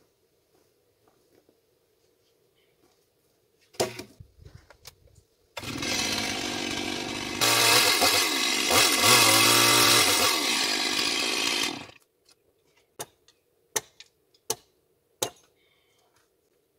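Chainsaw running for about six seconds, getting louder about halfway through as it bites into wood, with a few sharp knocks before and after.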